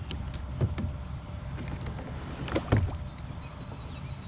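Wind rumbling on the microphone over water lapping, with two short knocks about half a second and nearly three seconds in.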